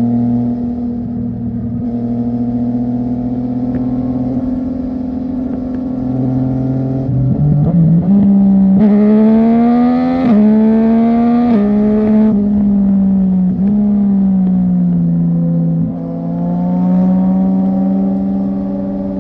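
Sport motorcycle engine through an aftermarket full-system exhaust, first holding a steady note, then accelerating hard, its pitch climbing and dropping sharply at each of several quick upshifts. It then eases off and pulls again near the end.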